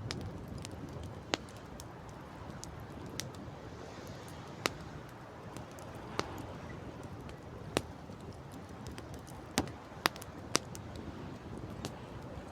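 Campfire crackling, with sharp single pops every second or two, the strongest near the end, over a steady low rush of wind.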